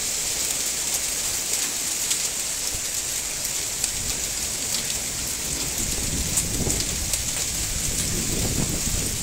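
Heavy storm downpour: a steady hiss of rain with many small sharp taps on cars and ground, and a low rumble swelling a few times in the second half.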